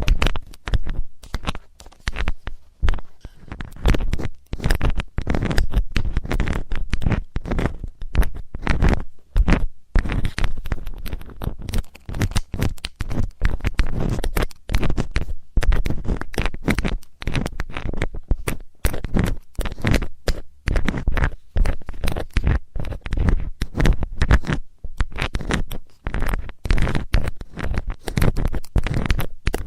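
ASMR ear-cleaning sounds: rapid, irregular scratching and rubbing right against the microphone, with a heavy low rumble under each stroke.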